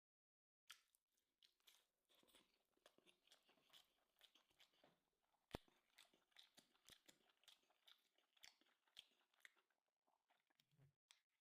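Faint, close-up chewing and crunching as a person eats, a rapid irregular run of small crackles with one sharper click about halfway through.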